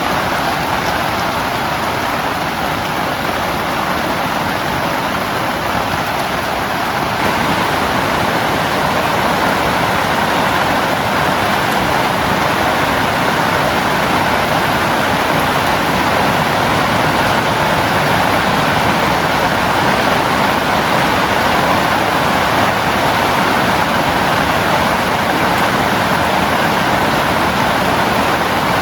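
Heavy rain falling on a small camping tent, a loud, steady, dense hiss that gets a little louder about seven seconds in.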